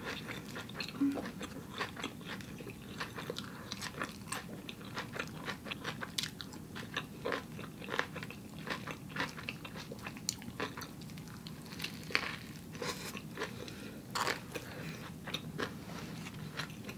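A person chewing a mouthful of burger, with irregular faint wet mouth clicks and smacks.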